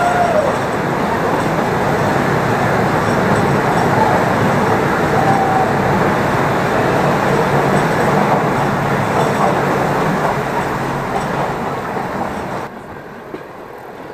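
Toy train carriage running through a rock tunnel: a loud, steady rumble of wheels and carriage echoing off the tunnel walls, dropping off sharply near the end.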